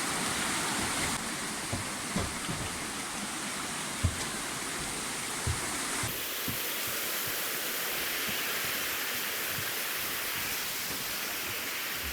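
Steady rush of flowing river water, with a few soft knocks in between.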